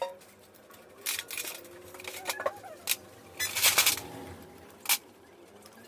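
Hand tools and metal engine parts clinking and clicking in scattered sharp knocks, with a quick rattling run of clinks about halfway through.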